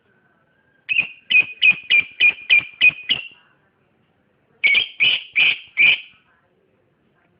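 Lovebird calling: eight sharp, high-pitched chirps in quick succession, about three a second, then after a short pause four more.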